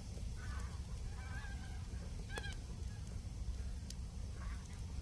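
Geese honking several times in short wavering calls over a steady low rumble, with a couple of sharp clicks.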